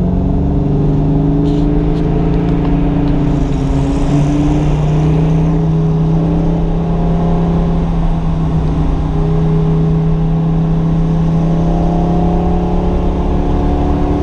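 A car engine running loudly at a fairly steady speed, its pitch drifting slightly up and down.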